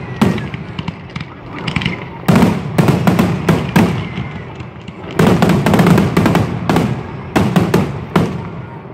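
Aerial fireworks shells bursting as loud bangers in rapid volleys: a bang near the start, a quick run about two to four seconds in, then a longer, denser barrage from about five to eight seconds in, the finale bangers of the show.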